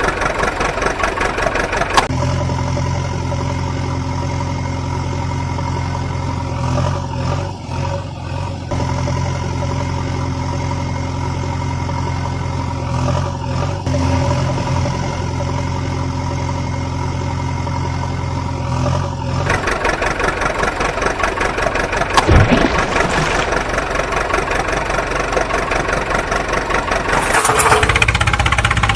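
Engine sound, rapidly pulsing at first, then a steady hum from about two seconds in, then rougher pulsing running again from about twenty seconds in, with a sharp click a couple of seconds after that.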